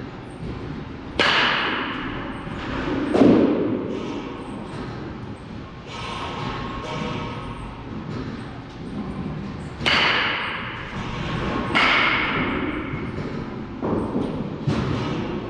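Baseballs striking during batting or catching practice: about six sharp cracks and thumps, spaced a few seconds apart and some in pairs about two seconds apart, several with a short ringing ping.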